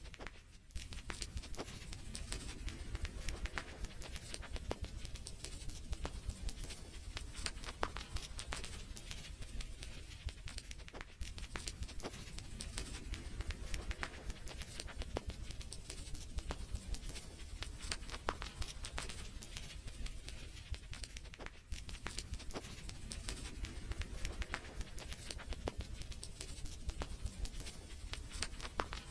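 Wood fire crackling in a fireplace: a dense, irregular stream of small pops and snaps over a low rumble, dipping briefly about half a second in.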